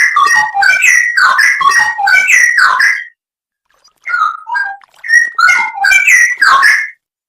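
Straw-headed bulbul (cucak rowo) singing loud, rapid runs of chirped and whistled notes. It breaks off for about a second about three seconds in, then resumes, and stops again near the end.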